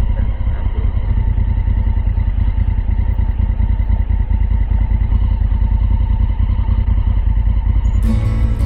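Motorcycle engine running steadily under way, a dense low rumble with fast, even firing pulses.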